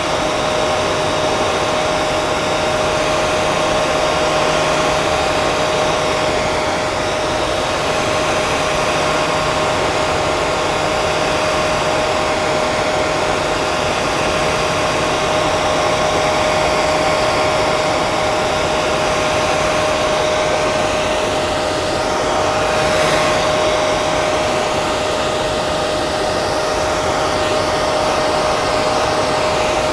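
Hair dryer running steadily, a continuous rush of blown air with a constant motor whine. There is a slight swell in the sound about three-quarters of the way through.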